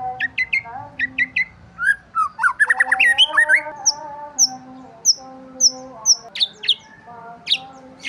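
Songbirds chirping: quick sweeping chirps, thickest in a rapid run about three seconds in, followed by high short notes repeated about every half second to second.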